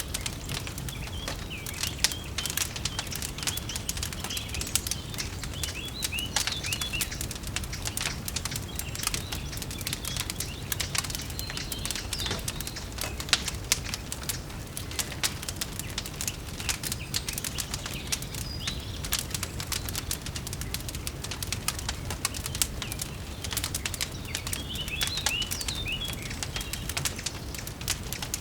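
Fireplace fire crackling with a constant stream of irregular pops over a low steady rumble, with songbirds chirping in short phrases now and then.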